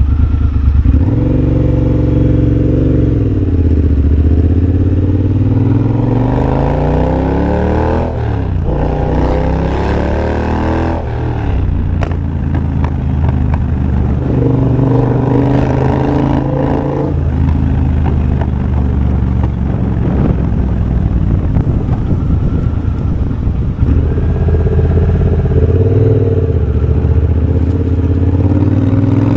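Triumph Bobber's 1200 cc parallel-twin engine on the move, breathing through a de-catted TEC X-pipe and Motone Shorty exhaust. It climbs in pitch as it accelerates over the first several seconds, drops back sharply, then runs steadier with further rises and falls in pitch.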